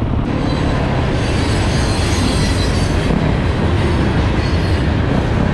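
Loud, steady rumble with a rushing noise over it, typical of a motorcycle ride heard from the bike: engine and road noise mixed with wind on the microphone.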